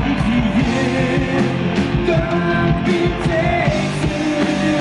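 Live band playing a pop-rock song, with drums keeping a steady beat and a singer's voice over the band.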